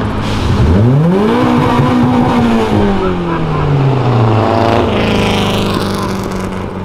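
Turbocharged Honda Civic coupe's engine revving hard as it pulls away. Its pitch climbs sharply about half a second in, then falls slowly over the next few seconds as it drives off. A second, steadier engine note comes in about five seconds in.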